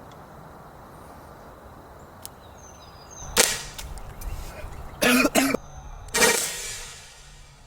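A Byrna SD CO2-powered less-lethal launcher fires a pepper-ball round with a sharp pop about three seconds in. Short pained vocal outbursts from the person hit follow, twice in quick succession and then once more, fading out.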